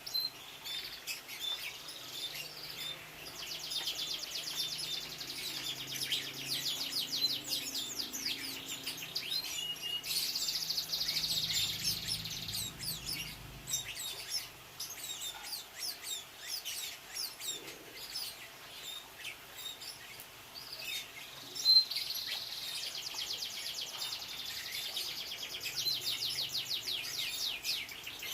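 Domestic canary singing: long runs of fast trills with short chirps between them, and one sharp click about three-quarters of the way through.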